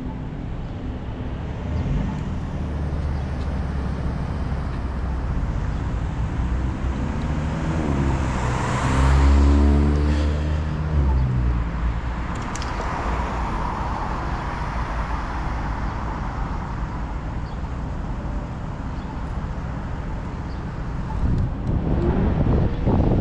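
A motor vehicle passes close by about nine seconds in, its engine and tyres swelling to a peak with a dropping pitch and then fading. Steady wind rumbles on the microphone from riding, and another vehicle comes up near the end.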